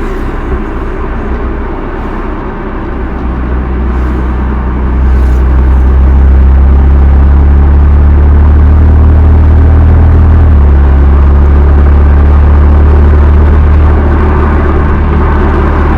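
Exhaust of a BMW M2 Competition's twin-turbo inline-six on its stock muffler, with the car under way: the engine note climbs gradually, then drops suddenly about ten and a half seconds in, as at an upshift, and holds steady after. The recording is clipped from an overloaded microphone.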